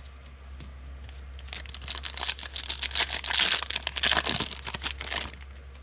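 Trading-card pack wrapper crinkling and tearing as it is opened. A dense crackle starts about a second and a half in and stops shortly before the end, over a steady low hum.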